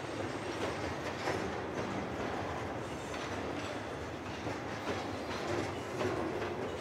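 Loaded acid tank wagons of a freight train rolling past at low speed: a steady rumble of steel wheels on rail with scattered clicks and clatter.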